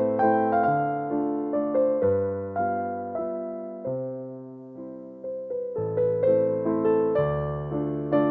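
Background music: a gentle solo piano melody with chords, each note struck and fading. It thins to a few slow, quieter notes around the middle, then fills out again about six seconds in.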